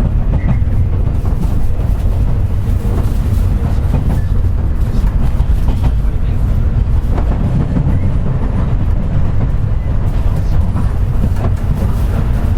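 JR West 201 series electric train running, heard from inside the motor car: a steady low rumble of wheels on rail, with a few clacks from rail joints.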